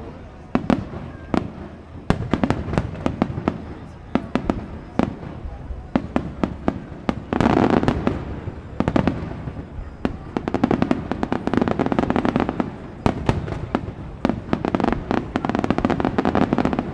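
Aerial fireworks shells bursting in a show: a steady run of sharp bangs, with dense volleys of rapid crackling about seven seconds in, around eleven seconds and near the end.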